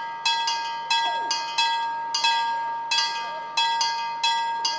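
Level crossing warning bells ringing: loud metallic strikes, two or three a second at uneven spacing, each ringing on over a steady tone.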